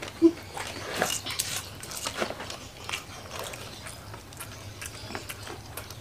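Close-miked chewing and crunching of crispy battered fried mushrooms, with soft, irregular crisp crunches. A brief vocal sound comes just after the start.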